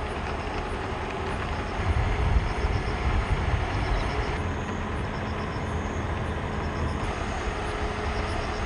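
Steady rush of heavy rain with a low rumble underneath that swells about two seconds in and then settles.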